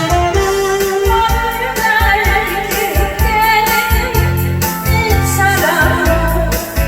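A singer's voice over a backing track with a steady beat and bass: a live Korean pop song.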